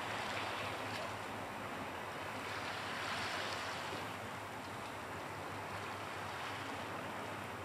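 Small waves washing against a rocky shoreline: a steady rushing wash that swells slightly twice.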